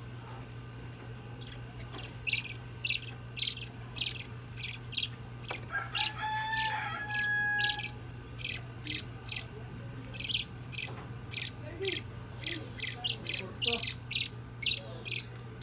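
A nine-day-old budgerigar chick giving rapid, short, high-pitched cheeps, about two a second, over a steady low hum, with a brief held tone about six seconds in.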